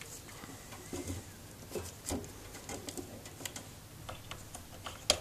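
Scattered light clicks and taps of a small part being handled and fitted into a guitar amplifier's chassis, with a sharper click near the end.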